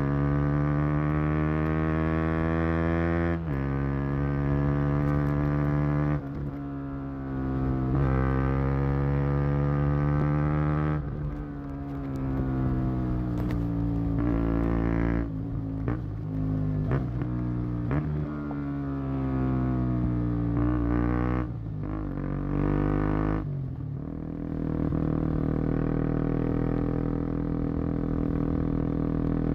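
KTM Duke 125's single-cylinder four-stroke exhaust under way. The revs climb and drop sharply twice in the first few seconds, as with upshifts under acceleration. Through the middle the note dips and falls repeatedly as the bike slows. Near the end it settles into a steady, lower drone.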